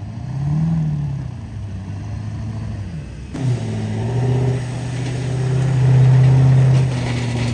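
Truck engine under hard throttle: revs rise and fall in the first few seconds, then hold high and steady for about four seconds.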